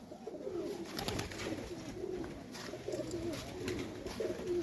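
Several domestic pigeons cooing together, low wavering coos overlapping one another.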